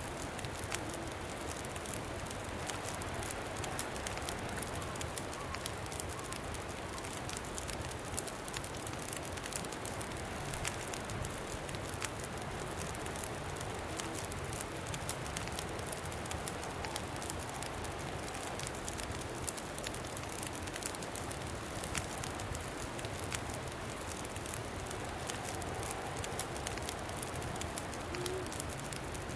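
Campfire crackling with frequent small sharp pops over a steady rush of wind.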